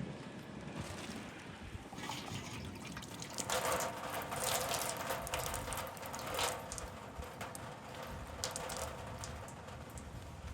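Water gushing and splashing in uneven spurts as a cast-iron engine block is washed out, heaviest through the middle, then trailing off into scattered drips and small splashes.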